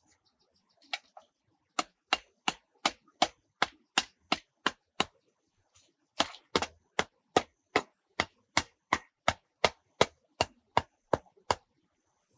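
Steady chopping, about three sharp strikes a second, in two runs with a short pause about five seconds in.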